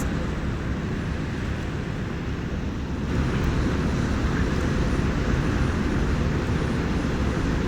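Steady outdoor background noise, a dense low rumble with a fainter hiss above it and no distinct events.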